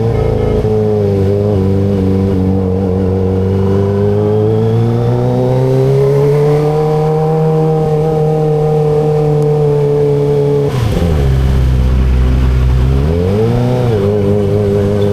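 Kawasaki ZX25RR's 250 cc inline-four engine running steadily under way, its pitch rising slowly. About 11 seconds in the engine note drops sharply, stays low for about two seconds, then climbs back up.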